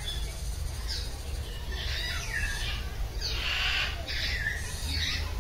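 Birds squawking: about five harsh calls in a row, some falling in pitch, the loudest a little past the middle.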